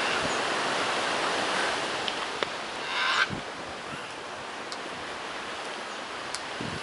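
A single short, harsh macaw squawk about three seconds in, over a steady rushing noise of wind or surf.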